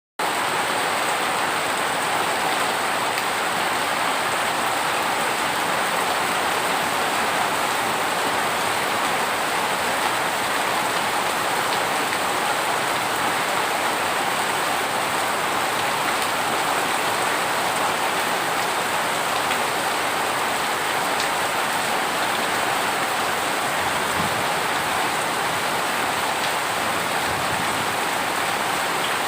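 Heavy rain falling steadily, a dense even hiss of drops on surfaces that keeps the same level throughout, with no thunder.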